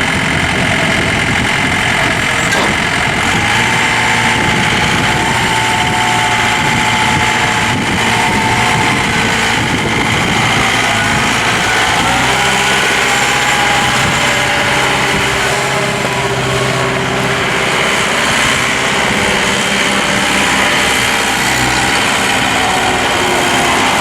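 A John Deere 4520 compact tractor's diesel engine running steadily.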